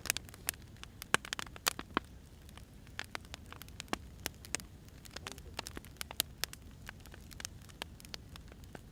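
Wood fire crackling: irregular sharp pops and snaps from burning firewood over a low steady rumble.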